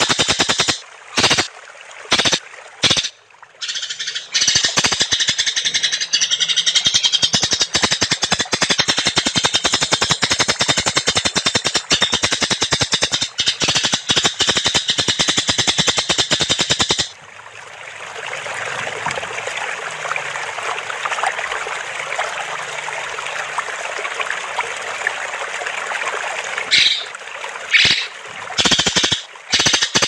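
Recorded song of a green leafbird (cucak ijo) in its rapid 'rol tembak' style: a very fast, high, machine-gun-like rattling trill with a few short breaks at first. About halfway through it changes to a softer, scratchier chatter, and the fast rattle comes back near the end.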